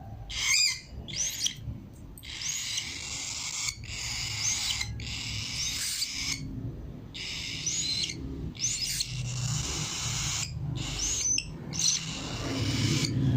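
A cockatiel giving repeated harsh, hissing calls, each about a second long with short gaps between them, mixed with brief chirps. This is the typical protest of a cockatiel held for a nail trim.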